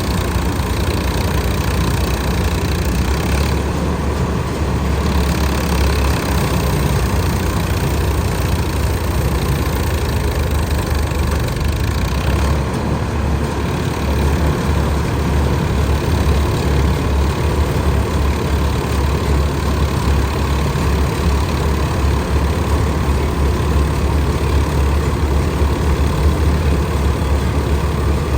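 Swaraj combine harvester running steadily at work, its diesel engine giving a constant heavy drone under a dense mechanical din, with no revving or stops.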